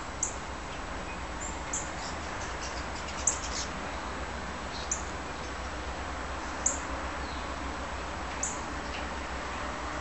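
A small bird giving a short, very high chirp, six times at a steady pace of about one every one and a half to two seconds, over a steady background hiss and low hum.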